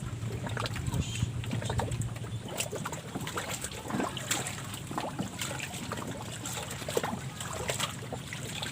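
Small waves lapping and splashing against the water's edge, with scattered small clicks and knocks.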